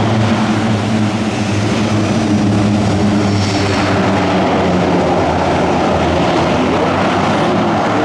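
Airbus A400M Atlas's four Europrop TP400-D6 turboprop engines and propellers running loud, a steady low drone made of several pitched tones over a broad rush, with the pitch sagging slightly midway.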